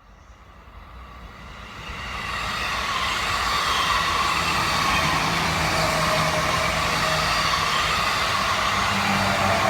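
Electric commuter train approaching and running past, growing louder over the first couple of seconds and then holding steady, with a steady hum under the wheel and rail noise.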